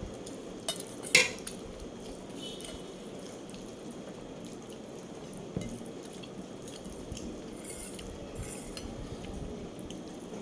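A few sharp clinks of dishes or cutlery, the loudest about a second in and another about five and a half seconds in, over a steady background hiss.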